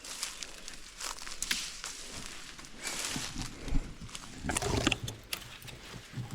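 Footsteps and rustling on the ground, a run of irregular crackles and crunches, with a heavier, lower-pitched rustle about halfway through.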